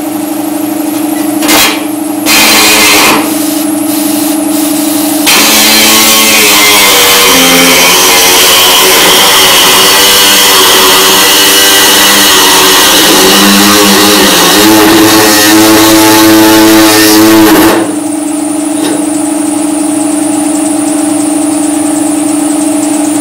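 A high-speed cut-off wheel cutting sheet-metal body panel: a steady high whine when spinning free, stopped and restarted a few times, then a long stretch of harsh cutting hiss from about five seconds in, the pitch sagging and wavering under load, before it returns to a free-spinning whine near the end.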